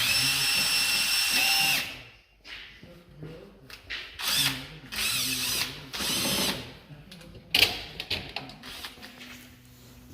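Handheld power tool running: one run of about two seconds at the start, then several shorter bursts, some rising in pitch as it spins up.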